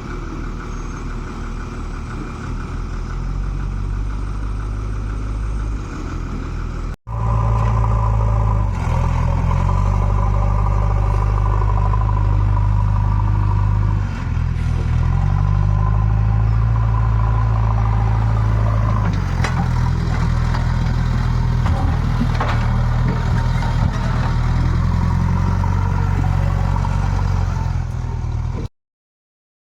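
JCB 3DX backhoe loader's diesel engine working under load. Its pitch steps up and down as the machine works, with a few metal clanks. The sound breaks off for a moment about seven seconds in and stops dead near the end.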